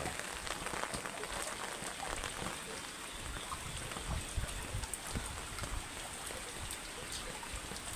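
Rain falling steadily, a constant hiss with many small scattered drop ticks.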